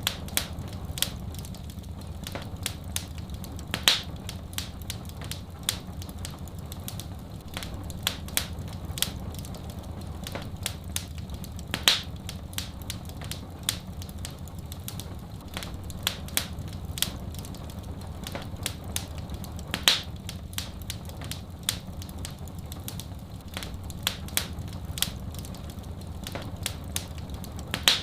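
Wood fire in a fireplace crackling, with frequent sharp snaps and pops over a steady low rumble; a few pops stand out much louder than the rest.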